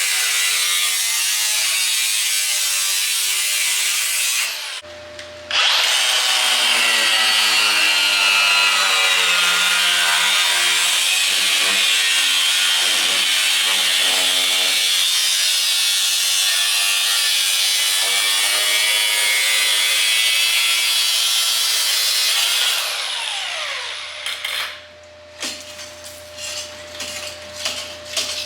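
A rotary power tool cutting into the truck body's rusted sheet metal, running loud under load. It stops briefly about five seconds in, then runs on, winds down with a falling pitch near the end, and is followed by a few light clicks.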